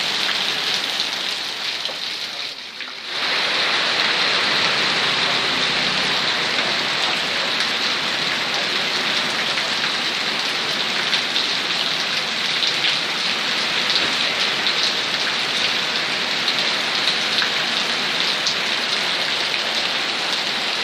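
Steady rain falling hard, a dense even hiss with scattered drop ticks; it dips briefly and swells back about two to three seconds in.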